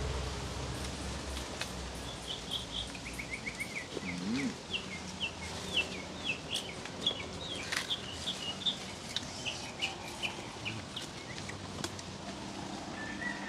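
A bird calling in a long run of short, quick chirps, over steady outdoor background noise with a few sharp clicks.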